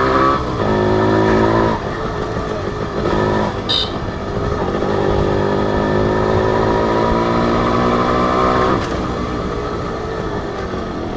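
Two-stroke single-cylinder engine of a Honda H100S motorcycle under way, revving up and down: its pitch drops sharply about half a second in and again near two seconds, climbs steadily from about four to nine seconds, then falls back. A brief high beep sounds about four seconds in.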